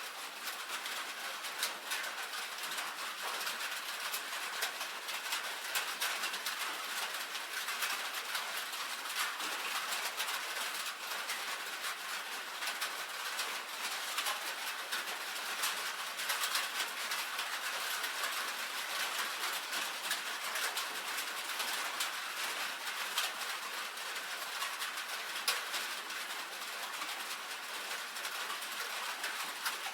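Rain falling on a tin roof: a dense, steady patter of drops tapping on the metal over a continuous high hiss, with no let-up.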